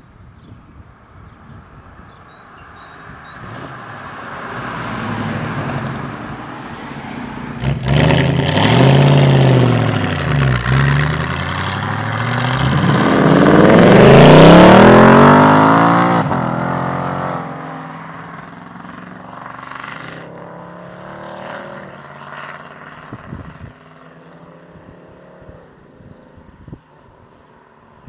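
Ford Mustang engine running hard as the car approaches and passes by. Its pitch rises and falls under throttle, it is loudest about halfway through with the pitch dropping as it goes past, and it then fades away.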